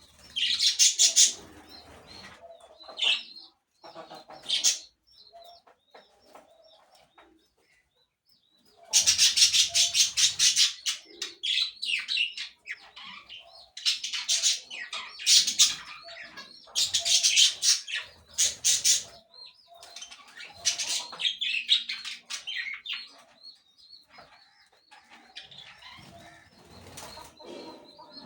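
Birds chirping in short repeated notes, broken by several loud bursts of wing flapping and calls.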